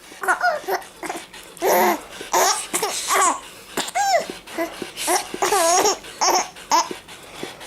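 A baby laughing in repeated short giggles and squeals, set off by someone making hissing sounds; bursts of hiss come between the laughs.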